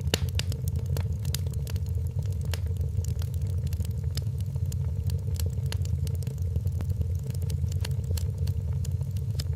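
Log fire in a fireplace crackling, with frequent irregular sharp pops and snaps over a steady low rumble.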